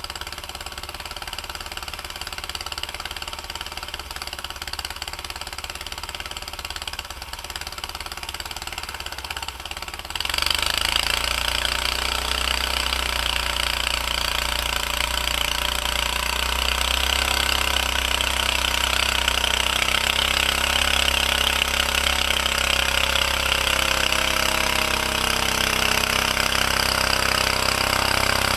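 Engine of a 1949 Bready walk-behind tractor running steadily while plowing heavy wet snow. About ten seconds in it gets suddenly and clearly louder and stays at that level.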